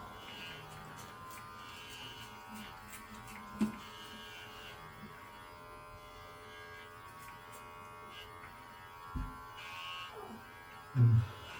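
Electric pet hair clippers running with a steady buzz while shaving a cat's fur. There is a low thump about nine seconds in.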